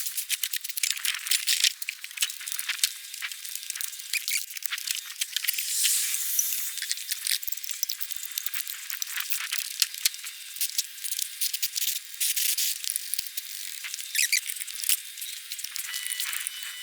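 Irregular clicking, rattling and squeaking of hand tools and wheel hardware being handled during a car tyre change, with short hissy scraping bursts, all thin and high-pitched.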